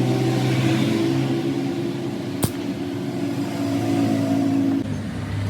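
A running motor humming steadily, its pitch shifting near the end, with one sharp click about halfway through.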